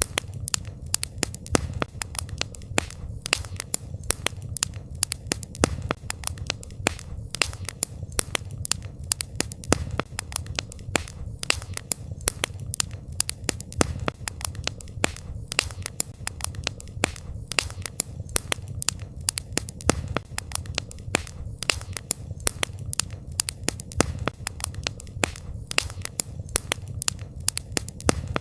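Wood campfire crackling and popping: many sharp snaps at irregular intervals over a low, steady rumble of the burning fire.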